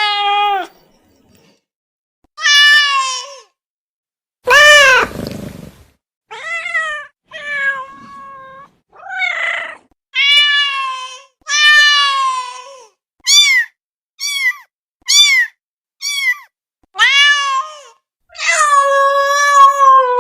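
Domestic cat meowing loudly over and over, about fourteen separate meows with short silences between them, each rising and falling in pitch; the last one is drawn out for about two seconds.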